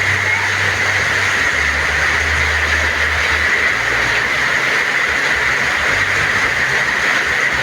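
Heavy rain pouring steadily, a dense even hiss, with a low rumble underneath that swells and fades every second or two.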